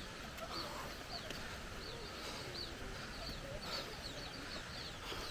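Small birds chirping: a string of short, high, downward-sliding chirps, a few each second, over a steady background hiss.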